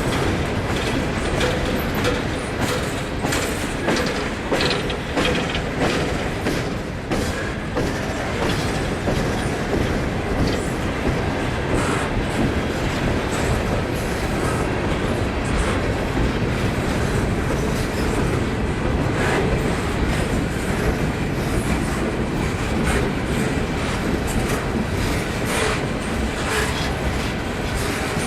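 Freight train cars rolling past steadily, their wheels clicking and clattering over rail joints.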